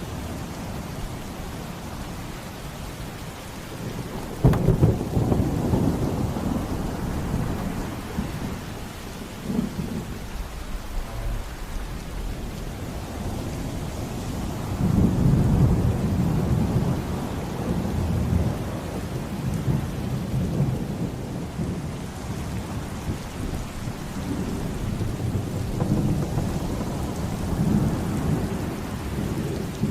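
Steady rain with rolling thunder. A thunderclap hits suddenly about four and a half seconds in, and further low rumbles swell up about halfway through and again near the end.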